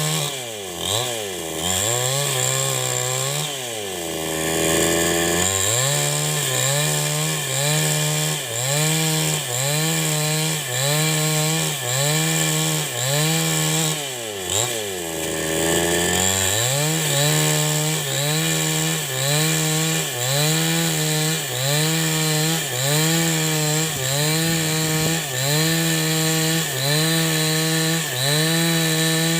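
A New West 788 two-stroke chainsaw runs at high revs ripping wood lengthwise, its pitch sagging and recovering about once a second as the chain loads in the cut. Twice the engine drops to a low idle for a second or two, then revs back up.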